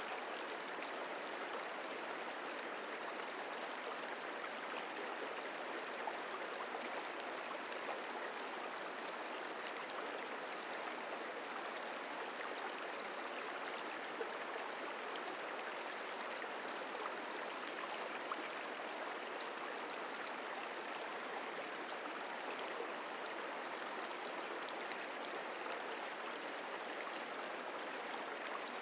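Merced River flowing: a steady, even rush of running water.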